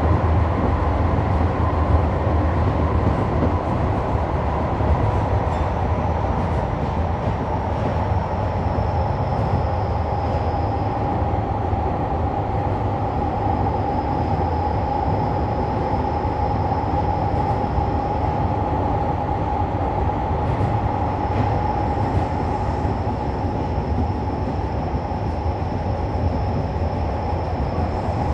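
Electric commuter train running at steady speed on the Fukutoshin Line, heard from inside the front car: a continuous rumble of wheels on rail with a steady high hum on top.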